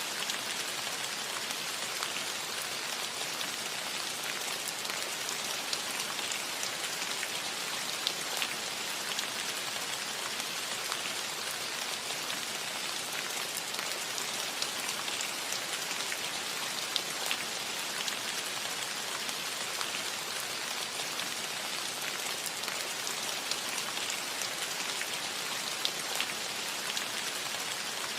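Steady rain falling on a cottage roof: an even hiss with scattered sharper drop taps.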